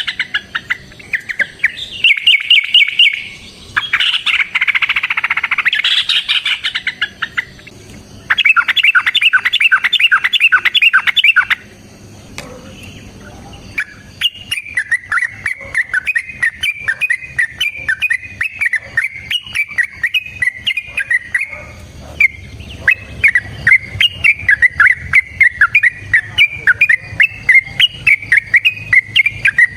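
Yellow-vented bulbul (trucukan) singing in long, rapid runs of short chattering notes, several bouts with brief pauses between them.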